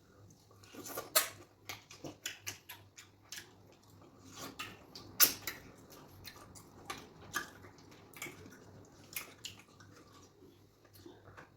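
Close-miked eating of fufu with okra soup: irregular wet smacks, clicks and chewing sounds from mouths and fingers, the loudest about a second in and about five seconds in, over a faint steady low electrical hum.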